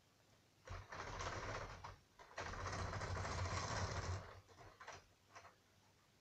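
Model railway stock running along the track in two short whirring runs, the first about a second long and the second nearly two seconds, with light clicks of handling afterwards.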